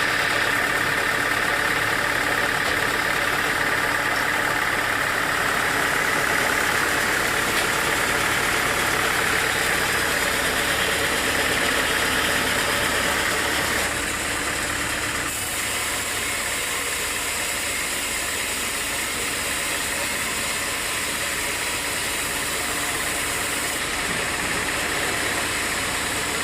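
Sawmill machinery running steadily, a dense mechanical drone with a bright higher-pitched band that fades out before the sound drops a little in level about fourteen seconds in.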